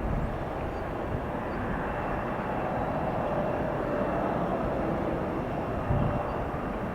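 Jet engines of an Airbus A321-200 airliner running steadily, with a faint high whine over the noise, swelling a little mid-way and easing again.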